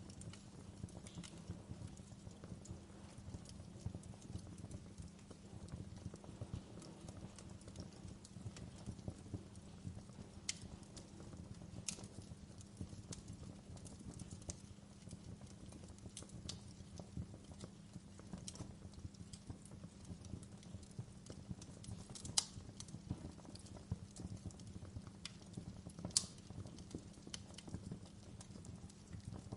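Wood fire crackling in a fireplace: a steady low rumble of burning with scattered sharp pops and snaps, two of them louder in the second half.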